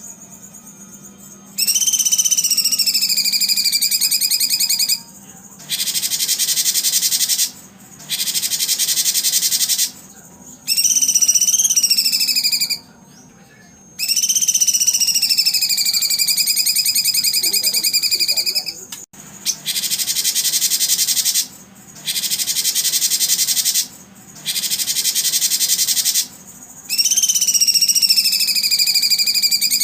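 High-pitched recorded calls played back in separate segments of two to four seconds with short pauses between them. Long whistled notes that fall and rise in pitch alternate with dense, even, buzzy high stretches. This is the kind of looped call audio played to train competition songbirds.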